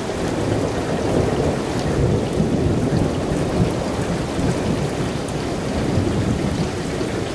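Heavy thunderstorm rain falling hard, with a long, uneven rumble of thunder rolling on without a break.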